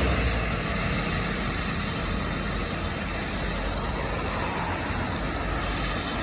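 Steady road-vehicle noise: engine running and tyre hiss with no sudden events.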